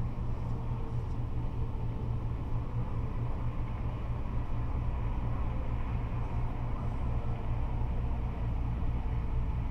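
Steady, deep rumble of freeway traffic, with cars and trucks passing continuously and no single vehicle standing out.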